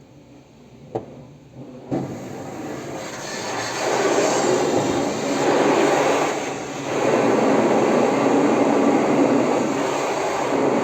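Steady loud rushing noise from car-wash equipment, starting with a click about two seconds in and swelling, with a brief dip past the middle.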